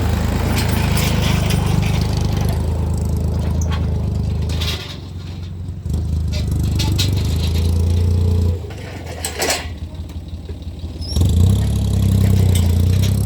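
Small tractor's engine running steadily while pulling a disc harrow, with scattered rattling clicks over it. The engine sound drops away twice, briefly about five seconds in and for a couple of seconds from about eight and a half seconds in, then comes back strongly.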